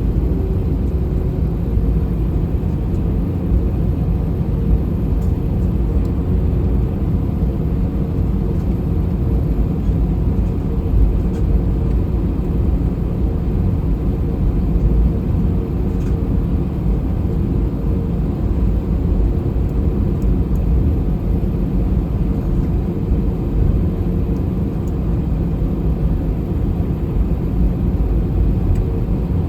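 Steady low rumble in the passenger cabin of an Airbus A321 on the ground before takeoff, its engines and air conditioning running, with a faint steady hum over it.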